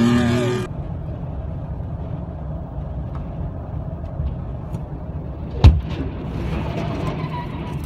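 Steady vehicle road and engine rumble, broken about three-quarters of the way through by a single sudden loud bang of a vehicle collision. In the first moment, a revving engine cuts off abruptly.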